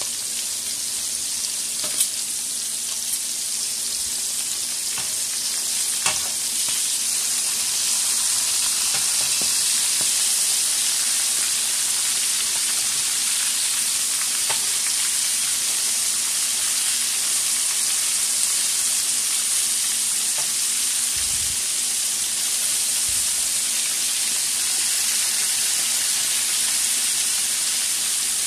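Flour-dredged sardines frying in hot oil in a shallow pan, a steady sizzling hiss that grows a little louder after several seconds, with a couple of sharp clicks in the first few seconds.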